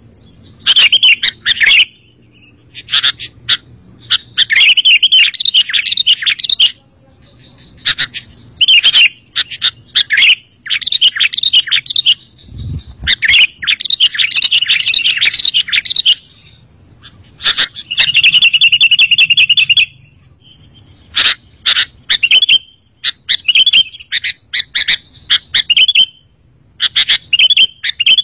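Sooty-headed bulbul (kutilang) calling in repeated short bursts of bright chirping notes with brief pauses between, including a fast rattling trill about two-thirds of the way through. A single low thump about halfway.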